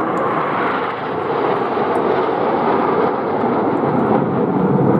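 Display aircraft flying over, its engine noise a steady, loud rush that dips slightly about a second in and then builds again.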